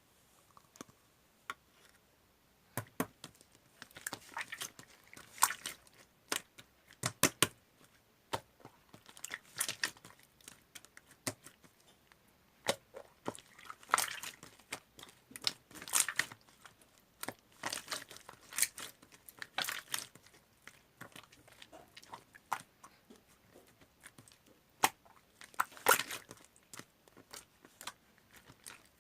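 Slime being squeezed, pressed and poked by hand, giving irregular crackling clicks and pops, some in quick clusters.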